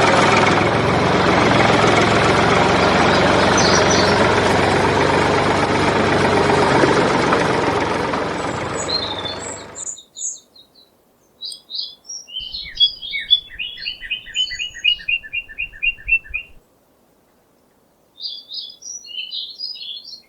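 A small engine running steadily that cuts off abruptly about halfway through; after it, birds chirping, with one fast run of repeated short notes.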